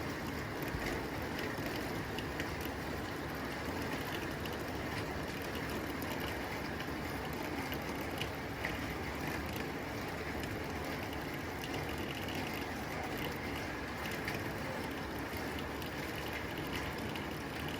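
Rain falling on a tin roof: a steady hiss of rainfall with many small, sharp ticks of drops striking the metal.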